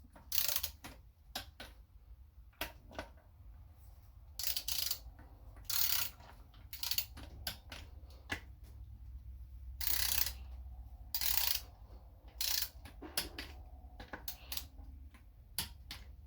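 Hand ratchet wrench clicking in repeated short strokes with pauses between, running down small bolts on an automatic transmission valve body.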